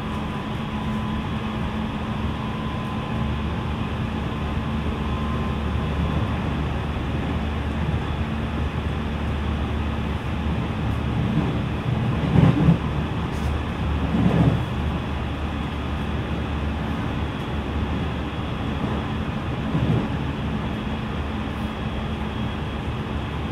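Onboard running sound of a JR West 207 series electric commuter train, heard from inside the car: a steady rumble of wheels on rail and running gear. A few brief louder swells come about halfway through and again near the end.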